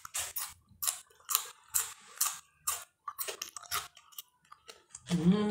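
Close-miked wet mouth sounds of someone eating chicken feet by hand: irregular smacking and sucking clicks, about two or three a second. Near the end a drawn-out hummed voice sound begins.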